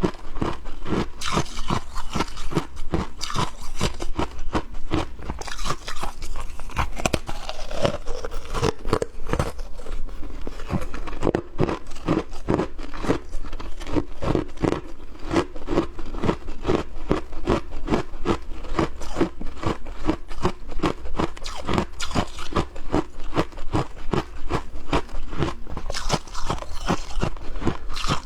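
Close-miked crunching of frost being bitten and chewed, a fast, continuous run of crisp crunches.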